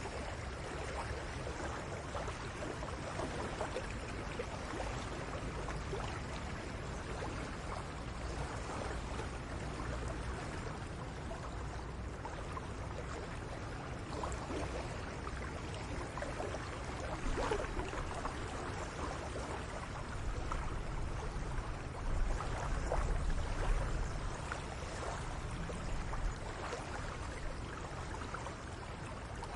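Steady outdoor ambience: an even hiss with a low rumble under it, and faint scattered small ticks and chirps. It swells slightly a few times after the middle.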